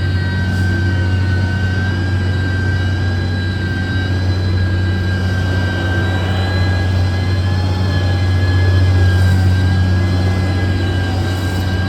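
Diesel engine of a heavy road-construction machine running steadily: a constant low drone with a steady high whine over it.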